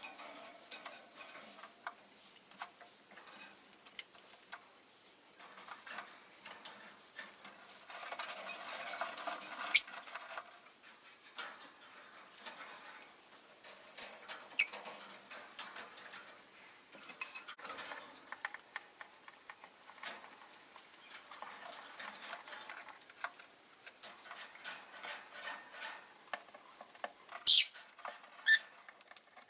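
Rosy-faced lovebirds in a cage making soft scratching, rustling and tapping sounds, with a few brief sharp chirps: one about ten seconds in, one around fifteen seconds, and two close together near the end.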